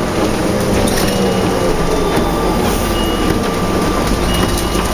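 Inside a 2004 New Flyer D40LF transit bus, its Cummins ISL diesel engine and ZF automatic transmission running steadily under way, with a steady thin whine over the engine noise.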